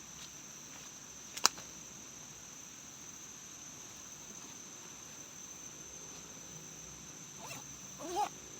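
Steady high-pitched insect chorus of forest crickets, with one sharp click about one and a half seconds in and a short sliding pitched sound near the end.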